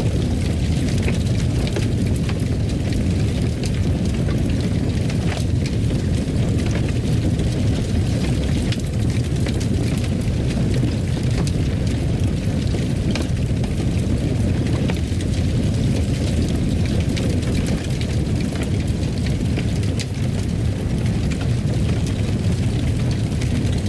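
Fireplace fire burning with a steady low roar and scattered faint crackles.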